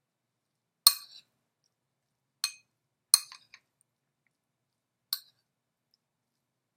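A spoon clinking sharply against a bowl four times, spread over several seconds, while tapenade is mixed and scooped.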